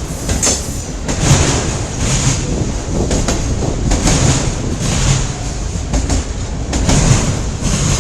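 CN train cars rolling past close by, the wheels clattering over the rail joints in a rhythm that swells about once a second.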